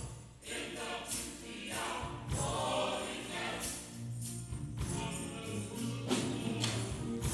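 Gospel choir singing with instrumental accompaniment and a steady bass, a tambourine shaking in time.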